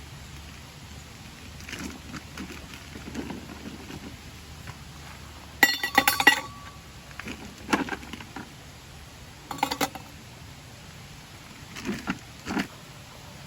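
Intermittent clinks and knocks of metal camp gear being handled. The loudest cluster comes about six seconds in, with a brief metallic ring, and there are smaller knocks near eight, ten and twelve seconds.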